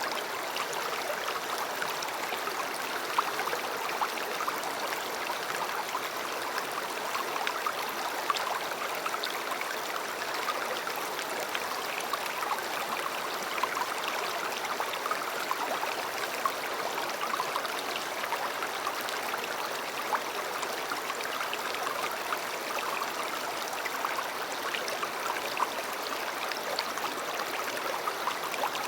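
River water flowing steadily, a continuous rushing with occasional small splashes.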